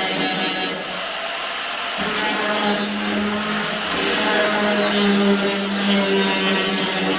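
Hand-held power tool running steadily at a constant whine, with a strong high hiss that eases about a second in and comes back stronger a second later, as it works on metal.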